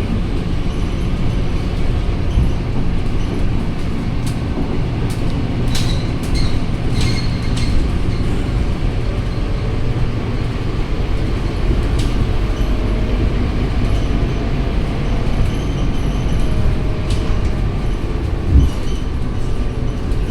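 Scania K230UB city bus under way: a steady low engine and road rumble, with scattered light rattles and clicks.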